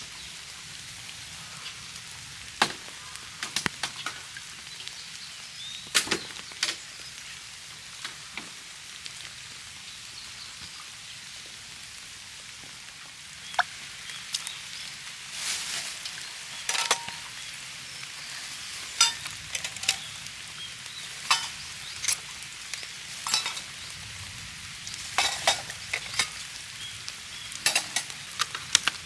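Rain falling steadily, with heavy drops striking a hard surface irregularly, more often in the second half.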